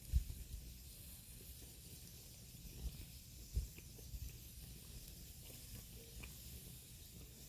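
Firewood burning in a fire pit: a faint steady hiss with a few small crackles. There are dull low thumps just after the start and twice around the middle.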